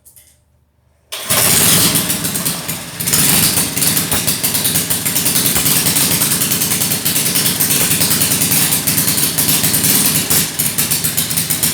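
Straight-piped engine, its exhaust with no mufflers, starting about a second in and then running loud with a rapid, uneven pulsing. The level dips briefly around three seconds in.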